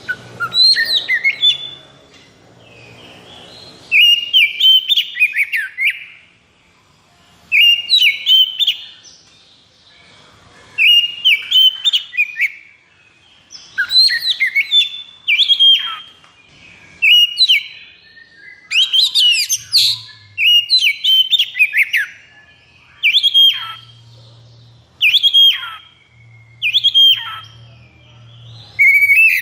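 Oriental magpie-robin (kacer) singing its agitated 'konslet' song: about a dozen loud phrases of whistled notes and steep downward sweeps, each a second or two long, with short pauses between them.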